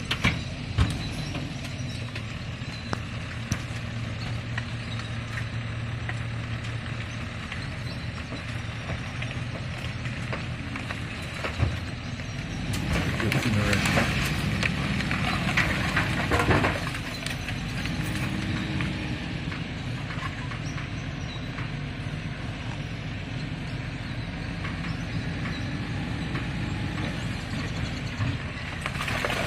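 Garbage truck engine running steadily while the truck unloads its refuse, with scattered knocks and clatter; it runs louder for a few seconds midway.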